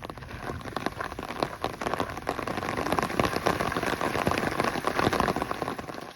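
Heavy rain falling, with many close drop hits on a surface over a steady hiss. It grows louder over the first few seconds and stops suddenly near the end.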